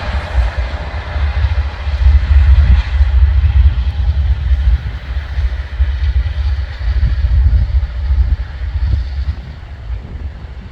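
Norfolk Southern freight train passing: a loud, steady low rumble that rises and falls in level, with faint wheel clicks in the second half.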